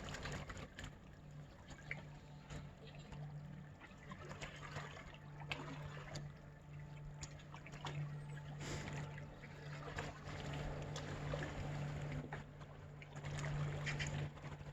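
Small waves lapping and trickling among shore rocks, with scattered small splashes, over a steady low hum.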